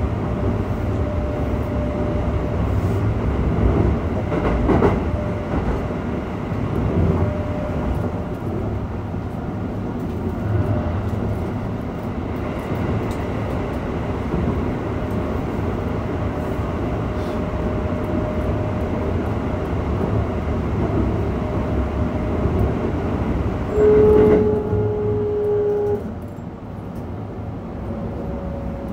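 Running sound inside a Keikyu 600-series electric train car with Mitsubishi GTO-VVVF traction equipment: a steady rumble of wheels on rail, with a faint tone coming and going over it. About 24 seconds in, a horn sounds one steady note for about two seconds, and the running noise is quieter after it.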